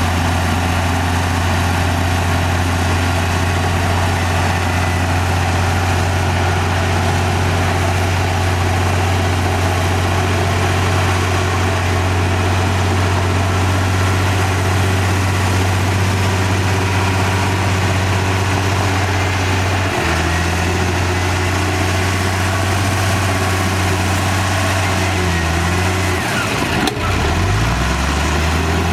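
Komatsu D58E bulldozer's diesel engine running with a steady low hum. The note shifts about two-thirds of the way through and wavers up and down near the end as the load changes.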